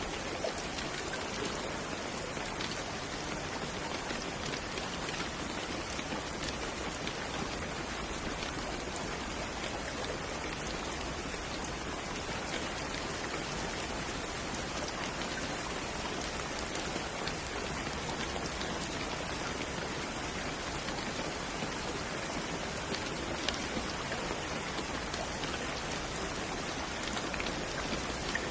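Steady rain falling on a surface, an even wash of noise with many fine individual drop ticks and no change in intensity.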